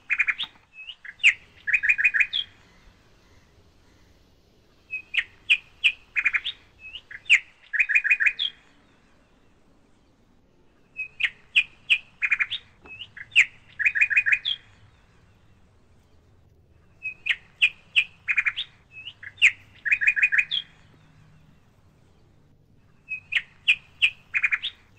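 A songbird repeating the same short phrase of quick, sharp chirps over and over, five times, about every six seconds, with quiet gaps between.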